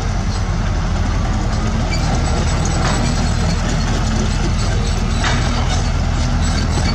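Heavy diesel construction machinery running steadily, with a short metallic knock about three seconds in and another about two seconds later.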